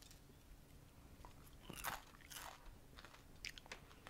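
Crisp fried banana turon (banana in a spring-roll wrapper) being bitten into and chewed: a few faint, sharp crunches of the fried wrapper, about two seconds in and again near the end.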